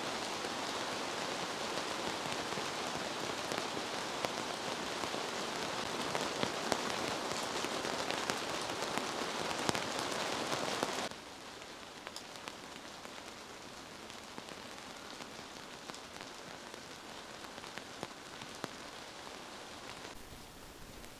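Heavy downpour: dense rain falling with many fine drop patters. About eleven seconds in it drops sharply to a quieter, steady rain.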